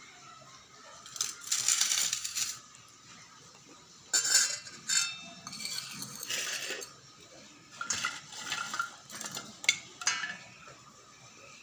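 Dishes and metal utensils clinking and clattering in several short bursts, with quiet gaps between them.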